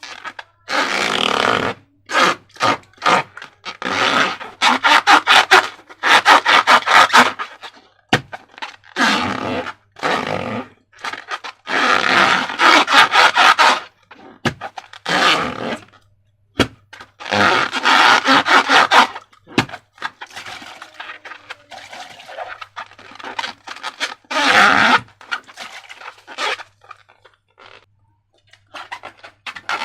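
Slime being worked by hand in repeated bursts of sticky, crackling squelches, each lasting up to about two seconds with short pauses between.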